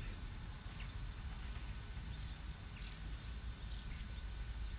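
A few short, high bird chirps scattered over a steady low rumble of outdoor background noise.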